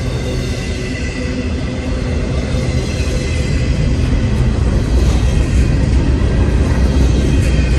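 Intermodal freight cars rolling past on the rails: a steady low rumble of steel wheels, with a faint high whine over it, growing a little louder about halfway through.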